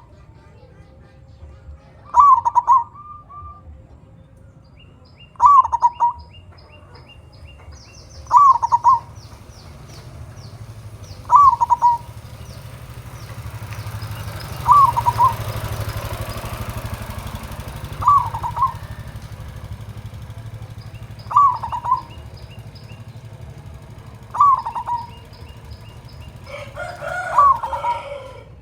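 Zebra dove (perkutut) singing its cooing phrase ending in a deep 'kung', repeated about every three seconds, nine times, with faint high chirps of small birds in between.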